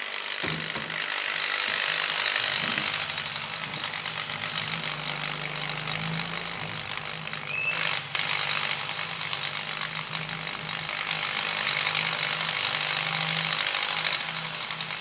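A metalworking machine tool running steadily: a low hum under a hissing, grinding noise, with a short break about eight seconds in.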